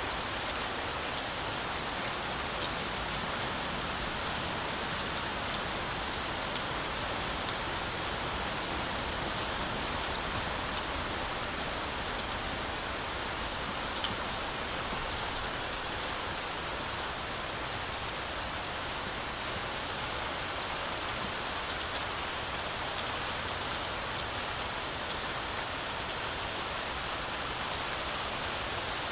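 Heavy, steady rain falling through a forest canopy, a continuous even hiss of drops on leaves and ground, with one faint sharper drop tick about halfway through.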